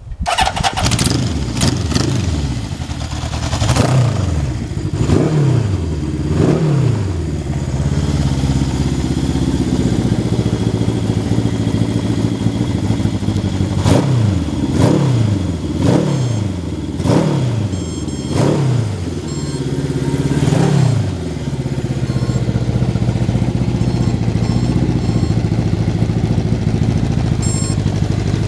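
Honda CB750's air-cooled inline-four engine being blipped, each rev rising and falling quickly in pitch. There are a few blips in the first several seconds and a run of about six more a little past halfway. It then settles into a steady idle.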